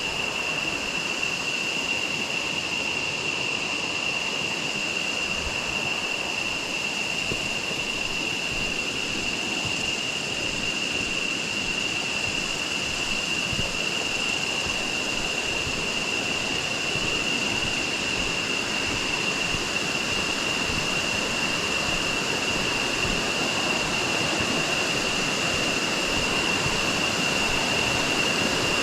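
Steady rush of a jungle waterfall and river, with a constant high-pitched tone running through it.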